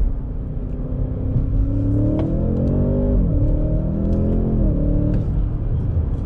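Audi S8's 4.0-litre twin-turbo V8 accelerating hard, heard from inside the cabin. The engine note rises, drops at an upshift about three seconds in, rises again and settles after a second upshift near the five-second mark.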